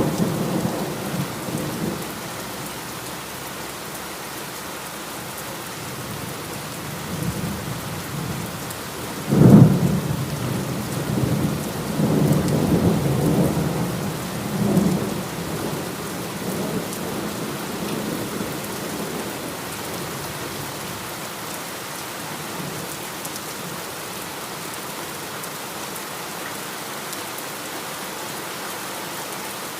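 Steady heavy rain with thunder. A rumble comes at the start, then a loud clap about nine seconds in rolls on for several seconds and fades back into the rain.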